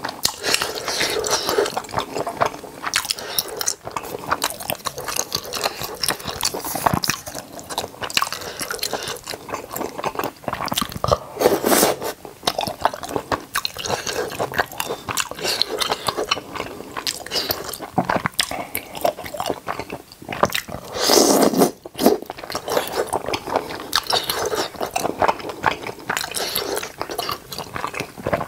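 Close-miked biting and chewing of tteokbokki, chewy rice cakes in thick red sauce: a continuous run of wet mouth sounds, with one louder, longer mouth sound about three quarters of the way through.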